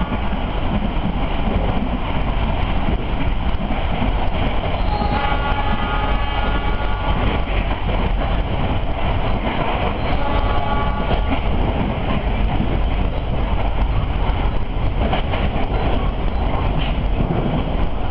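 Passenger train running along the track, heard from inside the coach: a steady, loud rumble and rattle of the wheels and carriage. Brief high tones sound over it about five and ten seconds in, and the clatter thickens near the end.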